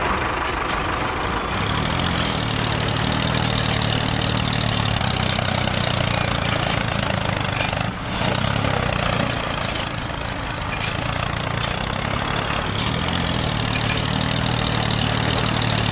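Engine running steadily, like a tractor idling, with a pulsing low hum and a short dip about eight seconds in.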